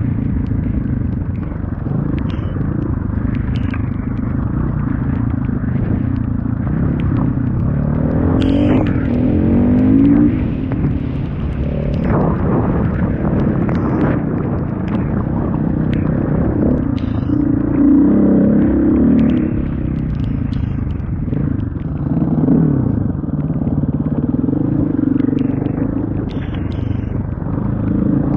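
Motorcycle engine running under way over a steady rush of wind and road noise, its pitch rising several times as the rider accelerates.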